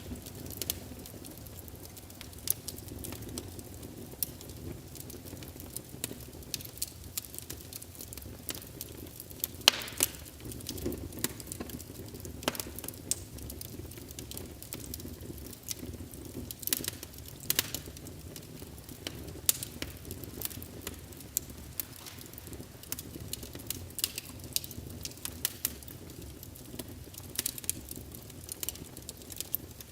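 Wood logs burning in a fireplace, crackling with frequent sharp pops and snaps over a low, steady rush of flame. The loudest pop comes about ten seconds in.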